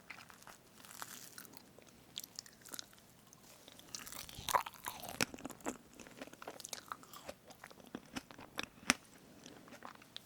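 Close-miked eating of a strawberry fresh-cream cake: soft chewing and mouth sounds with scattered small clicks, busiest around the middle.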